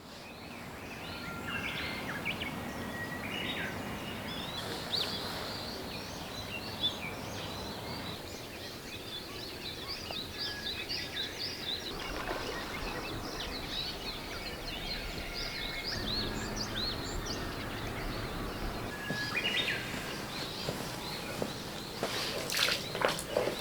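Small birds chirping and calling in quick, overlapping high notes over a steady outdoor hiss, with a few louder clicks or knocks near the end.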